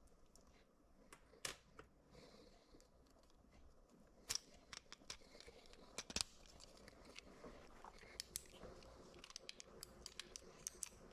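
Faint, scattered clicks and taps of small plastic parts being handled, as the microwave door latch's micro switches are removed and fitted, with two sharper snaps about four and six seconds in.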